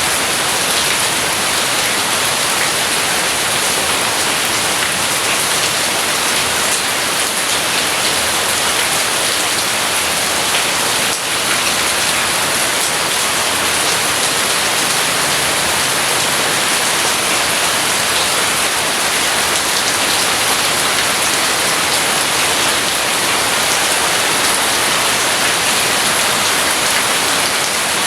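Steady rain falling, an even hiss with no thunder heard.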